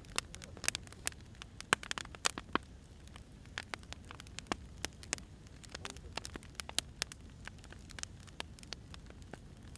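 Burning firewood crackling, with irregular sharp pops and snaps over a low steady rumble of the fire.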